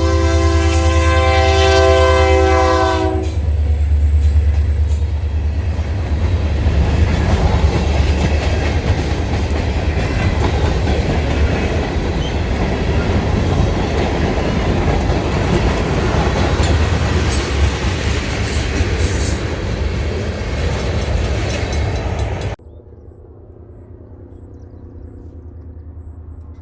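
Freight train led by a single diesel locomotive passing close by. A held multi-note air horn chord ends about three seconds in, then the locomotive's low engine rumble and the wheels clattering over the rail joints carry on until the sound cuts off suddenly near the end.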